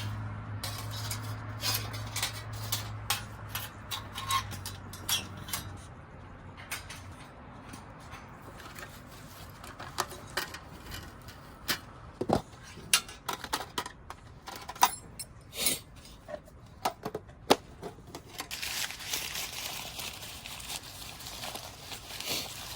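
Scattered clinks and knocks of cookware and utensils being handled and set down. A steady rustling hiss starts near the end.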